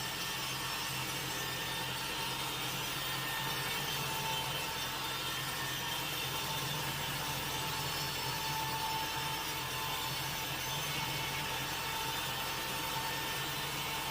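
Sawmill saw cutting steadily through a wood log, an even, unbroken machine sound with a faint steady whine.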